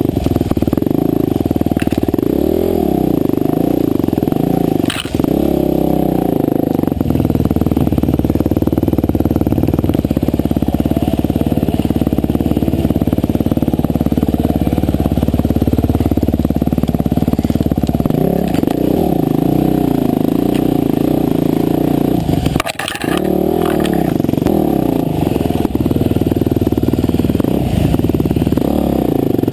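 Husqvarna TE511 single-cylinder four-stroke dirt bike engine under way on a trail, its revs rising and falling with the throttle. The sound briefly drops out about five seconds in and again about twenty-three seconds in.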